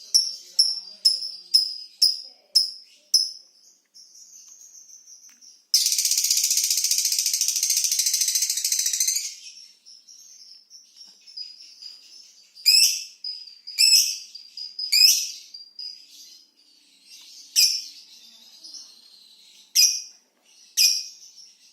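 A lovebird calling: sharp high chirps about three a second, then, about six seconds in, a loud, dense, rapid chatter lasting some three and a half seconds (the long 'ngekek' song), followed by scattered single sharp chirps.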